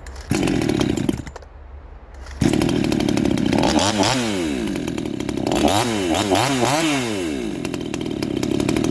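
58cc Chinese two-stroke chainsaw blipped briefly, then held at high revs from about two and a half seconds in, its pitch wavering up and down. The carburettor's high-speed fuel mixture is still being tuned.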